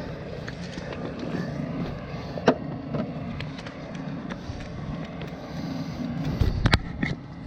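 Scattered clicks and knocks of hand tools and wiring being handled on a generator, with one sharp knock about two and a half seconds in and a cluster of louder knocks near the end, over a steady low background rumble.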